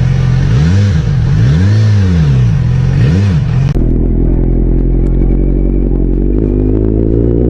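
Motorcycle engine revved in a series of blips, its pitch rising and falling about four times. About four seconds in, the sound cuts abruptly to an engine running steadily, its pitch creeping up near the end.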